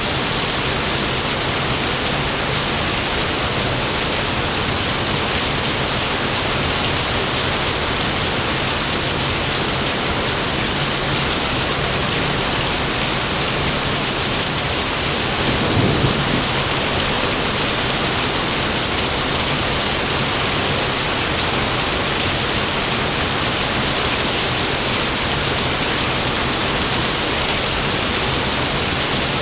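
Heavy rain falling steadily, with a short low rumble of thunder about halfway through.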